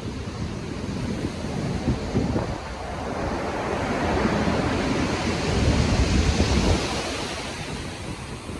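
Stormy sea: ocean waves breaking and surf rushing, with wind. The wash swells to its loudest about six seconds in, then eases off.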